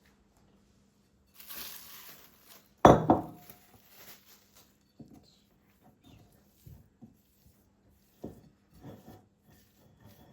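Kitchenware handled: a short hiss, then one loud clank of a dish or pot just under three seconds in that rings briefly, followed by scattered light knocks and clinks.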